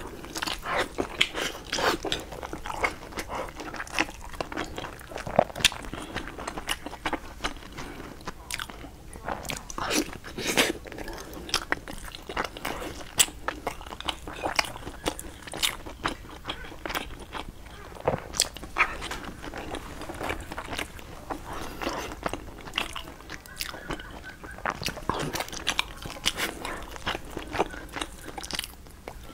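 Close-miked eating sounds: a person biting and chewing food, with frequent, irregular sharp clicks and smacks.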